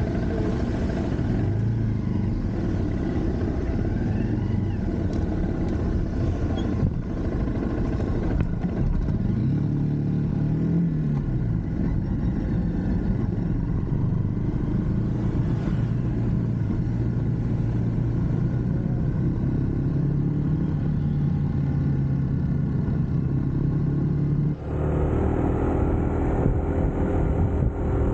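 UM Scrambler X motorcycle engine running while riding, its revs rising and falling about ten seconds in, then holding steady. The sound changes abruptly near the end.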